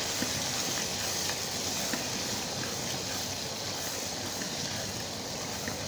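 Chicken karahi masala sizzling in a wok as it is stirred with a spatula: a steady frying hiss with a few faint spatula ticks.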